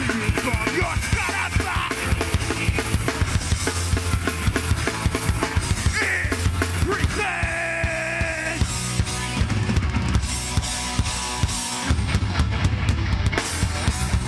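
Live hardcore band playing at full volume: pounding drum kit with bass drum and snare under distorted guitar and bass, with a held high pitched note about seven seconds in.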